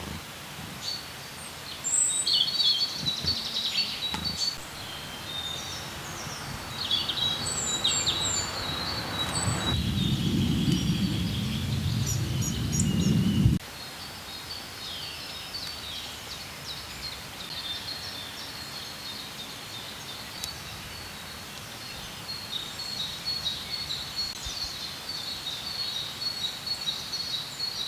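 Many small songbirds chirping and twittering together in quick, overlapping high calls. Midway a low rumbling noise builds for a few seconds and cuts off suddenly.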